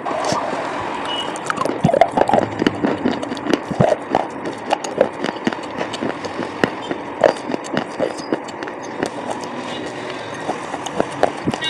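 Close-up chewing and crunching of coloured slate pencil: a run of irregular sharp crunches and crackles, densest and loudest from about two seconds in until near the end.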